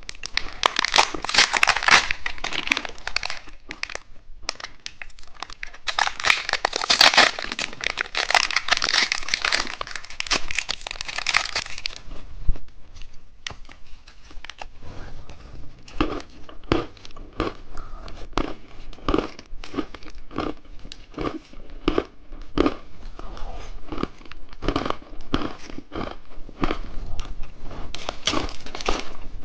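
Crinkly plastic candy packaging being crumpled and torn open in two long spells, followed by a long run of short, separate crunches and clicks.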